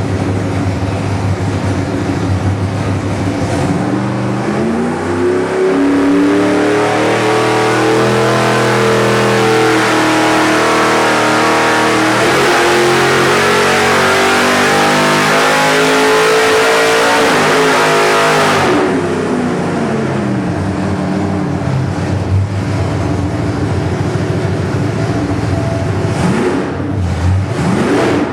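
Nitrous-fed small-block Chevrolet V8 on an engine dyno making a full-throttle pull with a 250 hp nitrous shot, its pitch climbing as the revs rise. About two-thirds of the way in the throttle cuts off suddenly and the engine winds down toward idle.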